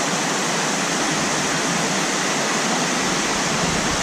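Waterfall water rushing and splashing over the limestone cascades as a steady, even rush. A low rumble rises under it near the end.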